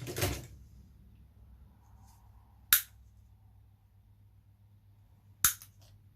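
Two sharp clicks or snaps, a little under three seconds apart, from hand tools and parts being worked while an eMac is taken apart. A brief handling rustle comes at the start, and a faint low hum runs under it all.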